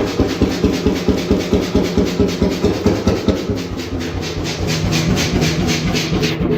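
1928 Beijer 10.4-litre single-cylinder hot bulb oil engine running at slow speed, with a steady, heavy putting beat of about four to five firings a second.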